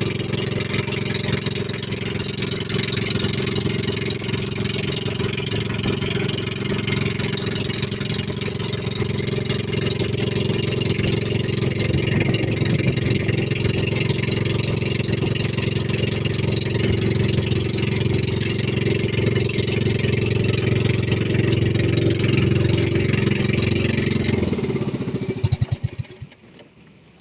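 Fishing boat's engine running steadily. About 25 seconds in it is shut off, the firing slowing over a second before it stops.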